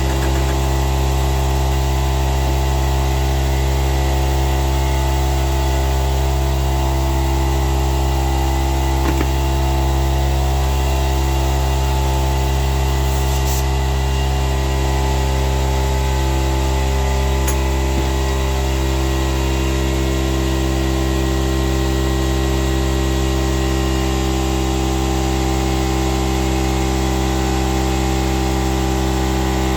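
A motor running steadily at constant speed, with a few faint clicks.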